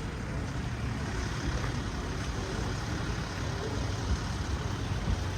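Steady low rumble of street traffic, with a vehicle engine running.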